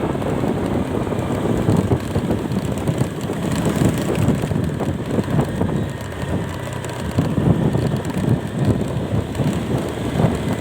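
Wind buffeting the microphone on a moving ride: a loud, uneven low rumble that swells and dips throughout.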